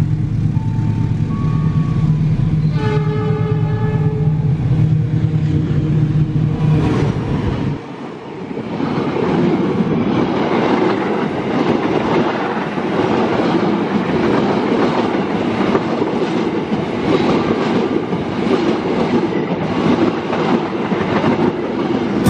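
Passenger train passing at speed close by: from about eight seconds in, a dense, steady rumble and rattle of carriages running over the rails. Before that, a steady low drone with short horn blasts as the train approaches.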